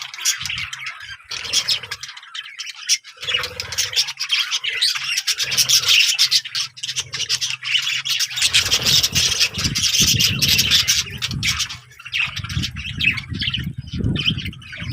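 Birds chattering and squawking in dense, rapid calls. Rubbing or handling noise comes in over them, mostly in the second half.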